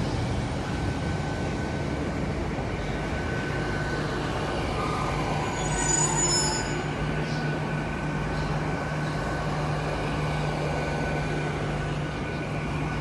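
Diesel trains in the station: a steady engine hum, with a brief high squeal of wheels on the rails about six seconds in.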